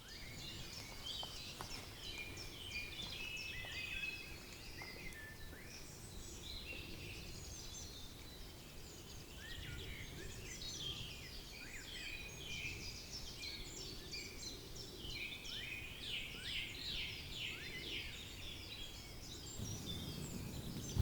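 Several songbirds singing and calling at once, a dense overlapping run of quick high chirps and trills, over a steady low background rumble.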